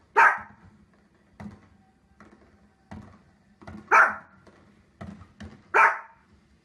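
Small Pomeranian-type dog giving three sharp, high barks: one just after the start and two near the end, about two seconds apart, with fainter short knocks between them.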